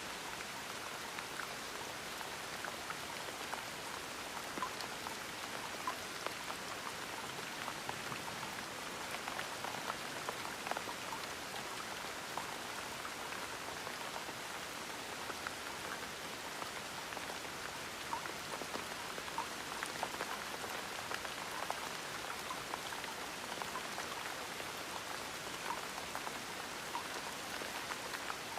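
Steady gentle rain: an even hiss of rainfall with many small scattered drips and patters of drops landing on a surface.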